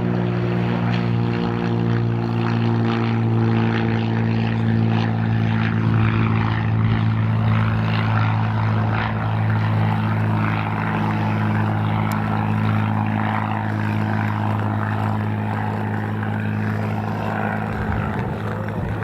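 Cessna 182RG's six-cylinder Lycoming engine and propeller running at a steady drone in flight, holding one pitch throughout.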